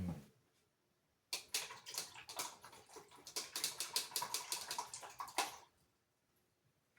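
Paintbrush working in a quick run of dabbing, scrubbing strokes that starts just over a second in and lasts about four seconds, after a single low thump at the start.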